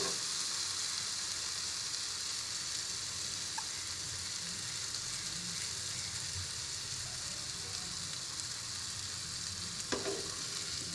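Diced purple yam cubes frying in oil in an open pan, a steady sizzle. A few light knocks near the end.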